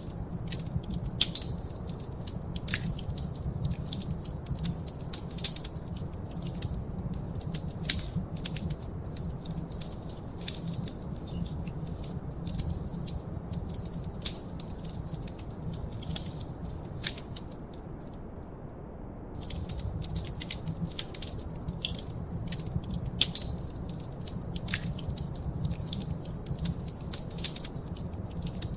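Wood fire in a fireplace crackling, with many irregular sharp pops and snaps over a low steady rumble. The crackling stops for about a second around two-thirds of the way through, then picks up again.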